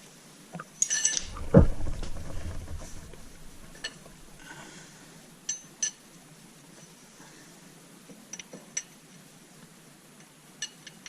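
Small metal parts and tools clinking as they are handled and set down on a hard surface. There is one heavier clunk about a second and a half in, then a few light, ringing clinks.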